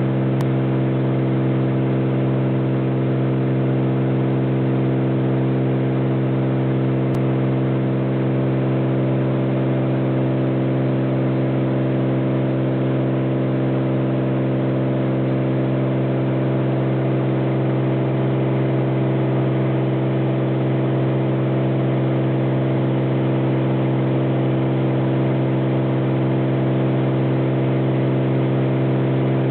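Light propeller airplane in steady cruise, heard from inside the cabin: a constant, unchanging engine and propeller drone with a strong low hum.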